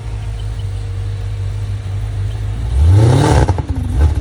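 Hennessey-tuned high-performance car engine idling with a low, steady rumble, then revved hard about two and a half seconds in, its pitch climbing. It drops back briefly and starts climbing again near the end.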